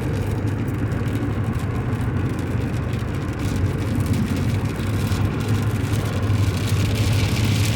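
Vehicle engine running steadily with road noise, heard from inside the cab while towing a trailer. Near the end a hiss of hail and rain hitting the vehicle grows louder.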